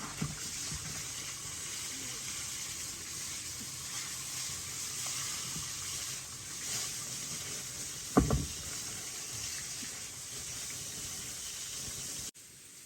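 Steady hiss of running water, with a single short knock about eight seconds in.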